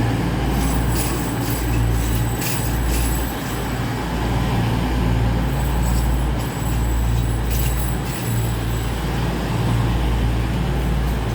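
A pair of Class 222 Meridian diesel multiple units running slowly through the station with a steady low engine drone, and scattered faint clicks and rattles.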